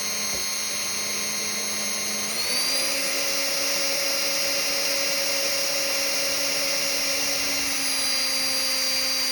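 Small electric drill running with a fine 1.5 mm bit, boring a shaft hole through a plastic model hull; a steady high whine whose pitch steps up slightly about two seconds in as the motor speeds up.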